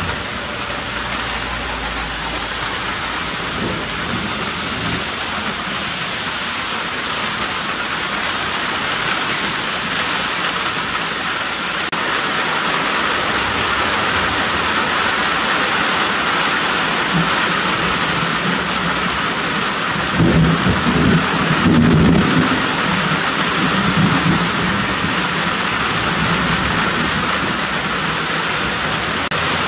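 Steady rain falling, an even hiss throughout, with a low rumble of thunder swelling about two-thirds of the way in.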